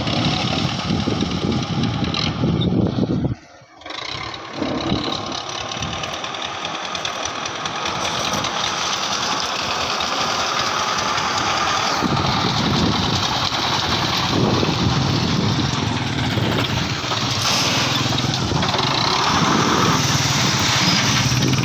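Tractor's diesel engine running steadily. About three and a half seconds in the sound breaks off briefly, then it comes back and grows louder over the next several seconds.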